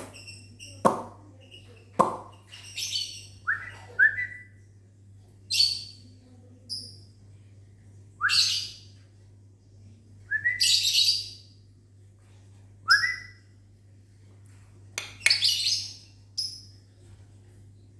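Lovebirds giving short, shrill chirps and squawks, a dozen or so calls a second or two apart, among short rising whistled notes, the birds answering whistling. Two sharp clicks sound near the start.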